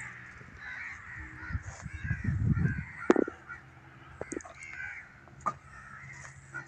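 Scattered bird calls, with a low rumble about two seconds in and a sharp click about three seconds in.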